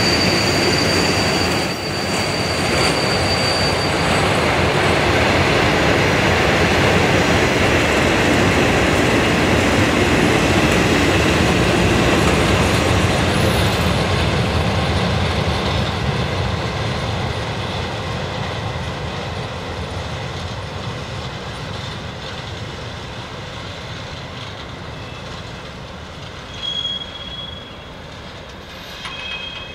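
Freight train wagons rolling slowly past on the rails, with a high steady wheel squeal in the first few seconds. The rolling noise fades over the second half as the end of the train moves away.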